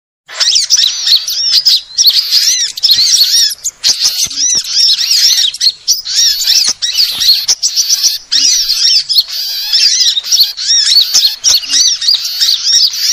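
Sunbird lure recording: many rapid, high-pitched arched chirps and twitters from several birds overlapping in a continuous chorus. A few sharp clicks come through now and then.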